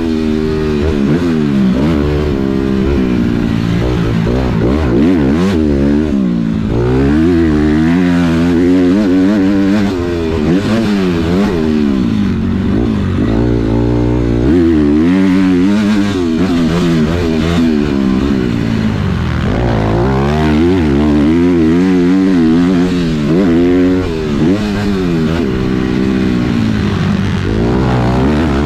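Motocross dirt bike engine being ridden hard on a track, its pitch climbing and dropping again and again as the rider accelerates, shifts and backs off.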